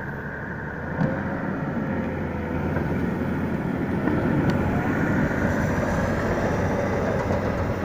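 A vehicle engine running hard under load, getting louder about a second in as it labours to drag logs free.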